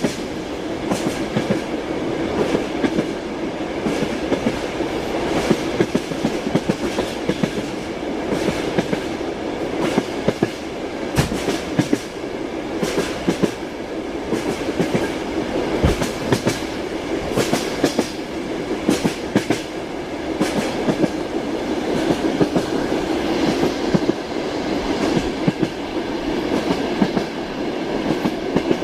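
Steady rumble of a moving passenger train heard from inside a compartment carriage, with the clickety-clack of the wheels knocking over rail joints.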